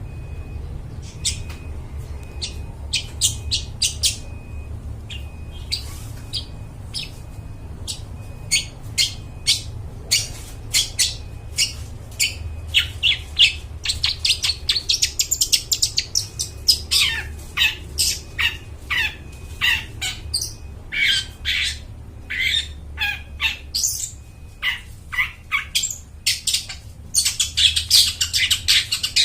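Long-tailed shrike (cendet) singing: a string of short, sharp, high chattering notes, sparse at first and growing denser. There are some downward-sliding calls in the middle and a fast, dense run near the end, over a steady low hum.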